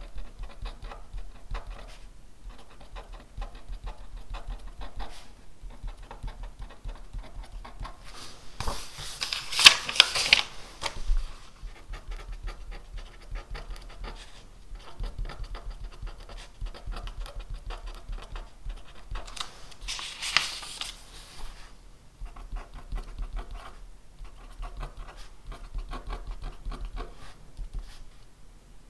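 Pen writing on paper: a steady run of small scratchy strokes. Twice, for about two seconds each, a louder scratchy swish rises above the writing.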